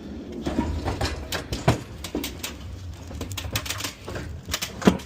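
Pallet and cart being worked onto a box truck's lift gate, with a run of sharp metal clicks, knocks and rattles and a low hum for the first few seconds. The load is hanging up on the gate.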